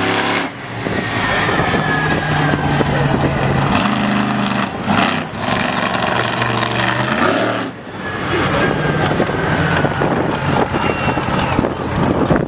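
Loud motor vehicle engines running hard, their pitch holding and stepping. The sound drops away briefly twice, about half a second in and again near the eight-second mark.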